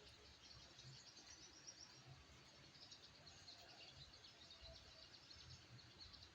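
Faint, rapid high-pitched twittering and chirping of a small bird, a wild-caught sunbird ('sogok ontong'), calling continuously.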